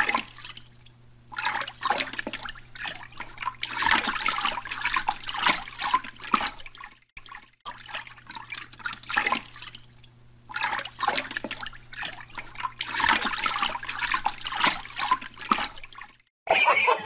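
Water splashing and dripping over a steady low hum. There is a brief break a little after seven seconds, then a very similar stretch of splashing, and it cuts off about a second before the end.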